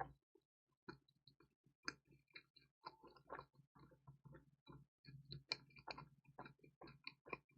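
Close-miked chewing of pizza: faint, irregular wet mouth clicks and small smacks, several a second.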